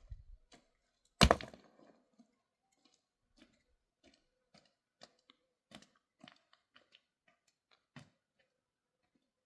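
A sharp, loud knock about a second in, then scattered light clicks and taps of hard objects being handled, with one more distinct knock near the end.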